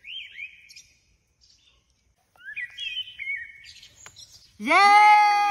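Small birds chirping in short, quick rising calls, twice. Near the end a much louder held call rises, holds for about a second and falls away, the loudest sound.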